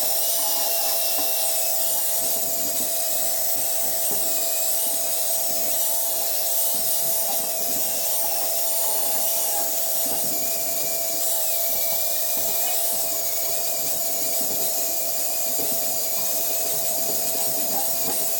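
Small high-speed rotary power tool running steadily while sanding or grinding welded scrap metal, a constant whine with wavering pitch over a rubbing, scraping noise.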